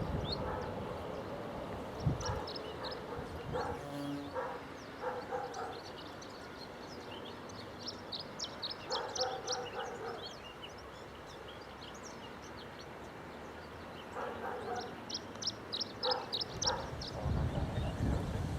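A dog barking in short bouts in the distance, with small birds chirping. A low rumble starts near the end.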